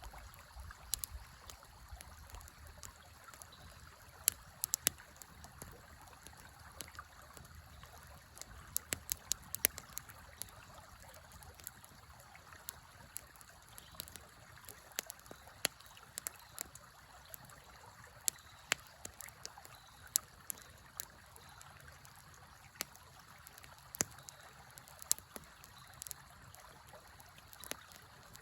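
Campfire crackling, with sharp, irregular pops and snaps, over the steady rush of a river.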